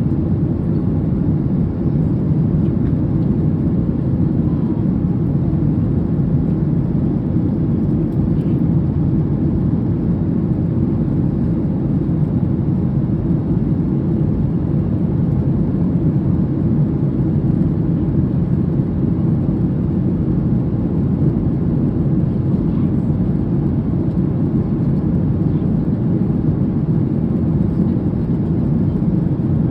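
Steady low drone inside the cabin of a Boeing 737 airliner in flight: jet engine and airflow noise, unchanging throughout.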